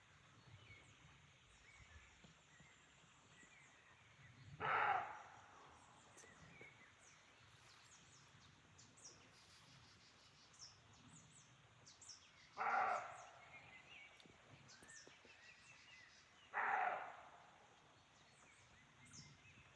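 Roe deer barking: three loud, short barks several seconds apart, near the start of the second third, about two-thirds through, and again some four seconds later. Small birds chirp faintly throughout. The barks are taken to be a roe buck's territorial or mating call.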